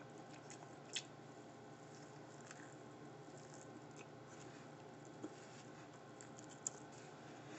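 Near silence with faint eating sounds: a few small clicks and soft squishes as a bite of sushi burrito is taken and chewed.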